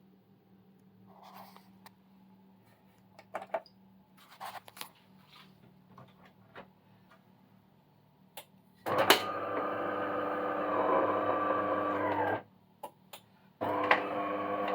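A few light clicks and taps, then a DeLonghi Magnifica bean-to-cup coffee machine starts up with a loud steady mechanical buzz. The buzz cuts off after about three seconds and starts again near the end, as the machine works through a brewing cycle.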